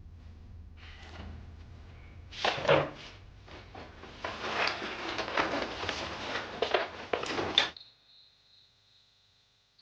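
Knocks and clatter of objects being handled, like a drawer being worked. There is one sharp knock a few seconds in, then a busy run of knocks and rattling that cuts off abruptly about three-quarters of the way through, leaving a faint steady chirring of crickets.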